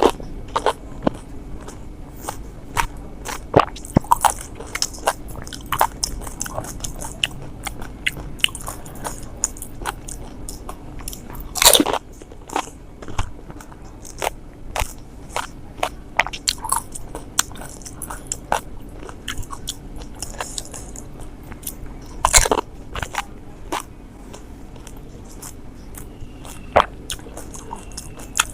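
Close-up eating of pani puri (golgappa): crisp fried puri shells crunching as they are bitten and chewed, a run of short sharp crunches with three louder, longer ones at the start, about twelve seconds in and about twenty-two seconds in.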